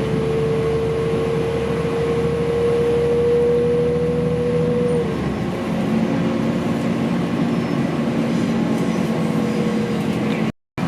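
Interior running sound of a Class 4000 diesel multiple unit in motion: the rumble of the underfloor drive and wheels on rail, with a steady whine that rises slightly and stops about five seconds in, leaving a lower hum. The sound drops out briefly near the end.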